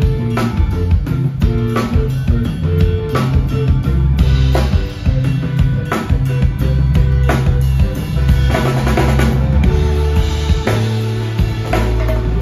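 A live rock band playing an instrumental passage: a drum kit keeps a steady beat under bass, guitar and keyboards.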